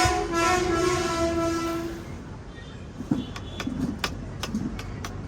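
A vehicle horn sounding one long, steady note for about two seconds, followed by a few light clicks and knocks.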